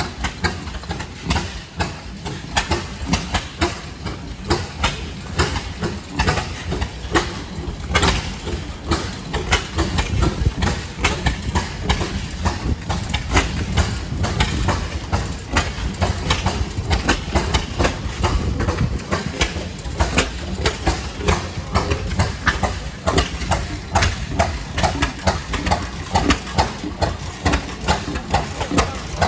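Old engines running with a steady low rumble, under regular sharp pops of about two to three a second.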